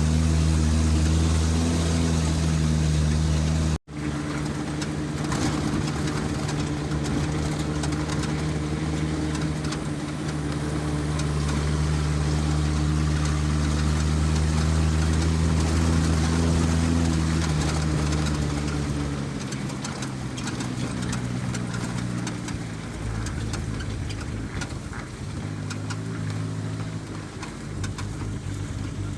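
Vehicle engine running at a steady pitch while travelling along a road, with road and wind noise. The sound cuts out for an instant about four seconds in, and the engine note drops and changes about two-thirds of the way through.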